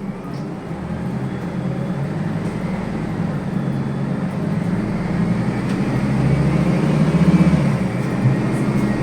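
Scania N280UB city bus's CNG engine pulling away and accelerating, heard from inside the cabin, growing steadily louder over about seven seconds and easing off briefly near the end.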